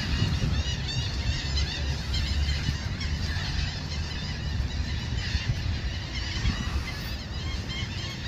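A large flock of gulls calling, many short overlapping calls at once, over a low steady rumble.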